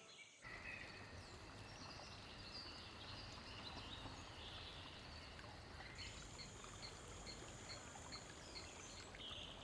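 Faint outdoor ambience: an even rushing noise with scattered faint bird chirps. From about six seconds in, a run of short high calls repeats about twice a second.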